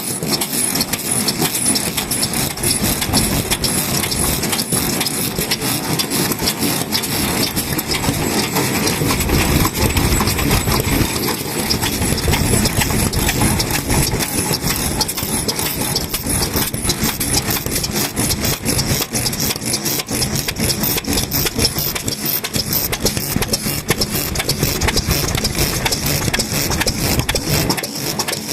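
Vintage Japanese stationary kerosene engines (overhead-valve hatsudoki farm engines) running steadily, with a rapid, even exhaust beat.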